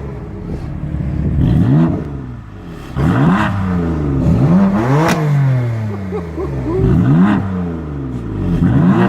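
A BMW M twin-turbo straight-six, the engine of the M3 and M4, revved hard while parked, in about six quick blips. The engine pitch climbs and falls back each time.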